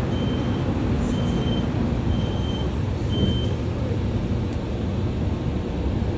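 Low, steady rumble of a running vehicle, with a high electronic beep repeating about once a second that stops about halfway through, after four beeps.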